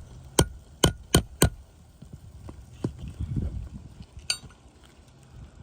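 Shingle hammer striking a nail-removal tool under an asphalt shingle to get at a roofing nail: four sharp hammer hits in quick succession in the first second and a half, then a few lighter taps and a ringing metallic clank near the end.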